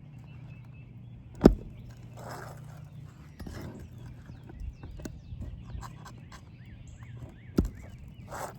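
Roof snake struck with a hammer to pull shingle nails: two sharp metal knocks, about a second and a half in and near the end, with lighter clicks and scraping of the tool against the asphalt shingles between.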